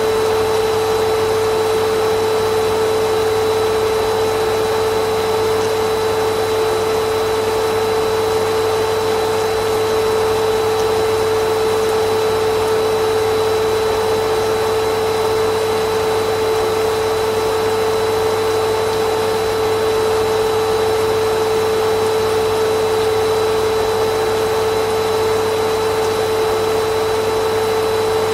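Vacuum cleaner motor running steadily, a constant whirring hum with a strong steady tone and an even rush of air.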